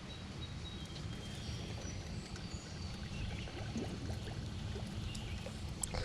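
Outdoor pond ambience: a steady low rumble of wind on the microphone, with faint short high bird chirps and a few small clicks.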